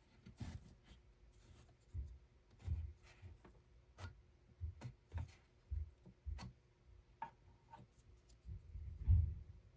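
Irregular soft thumps and light clicks, about a dozen, of handwork on small objects in a quiet room. The loudest thump comes near the end.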